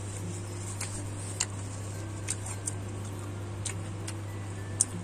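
Chewing a sauce-soaked beef burger: scattered wet mouth clicks and smacks, the sharpest about a second and a half in and near the end, over a steady low hum.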